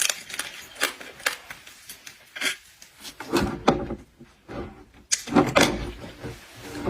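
Close-up seafood eating noises: a run of sharp clicks and cracks from shells being handled and bitten, with two louder, denser bouts of cracking and crunching, one about halfway in and one a little later.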